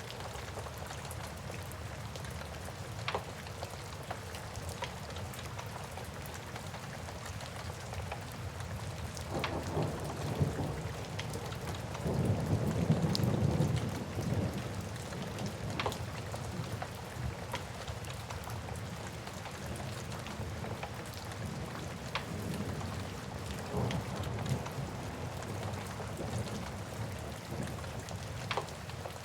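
Steady rain with a wood fire crackling, sharp pops now and then. A low roll of thunder swells about ten seconds in and is loudest around thirteen seconds, then fades.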